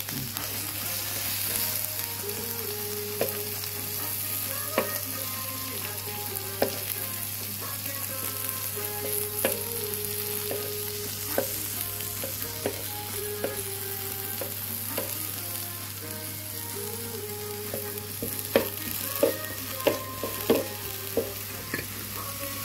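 Sausage slices and vegetables sizzling on a hot griddle plate as they are stir-fried, with a steady hiss of frying. Sharp clicks and scrapes of the spatula against the plate come now and then, more often near the end.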